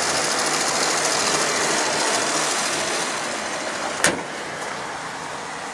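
Mazda RX-7 Series 8's twin-turbo 13B rotary engine idling steadily and quietly, with a single sharp click about four seconds in.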